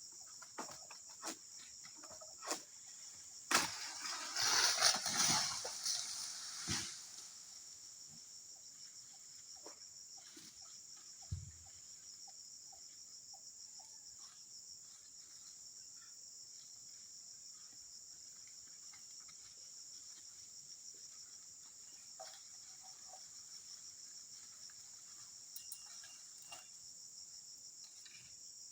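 Steady high-pitched drone of insects chirring throughout. Scattered sharp clicks and snaps come in the first few seconds. A loud rustling crash of vegetation lasts about three seconds, starting a few seconds in. A single low thud follows about eleven seconds in.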